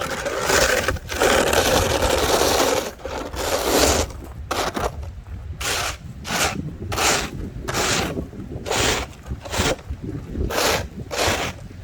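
Snow and ice being scraped off the ground by hand to keep it from being slippery. A long stretch of scraping comes first, then short repeated strokes about two a second.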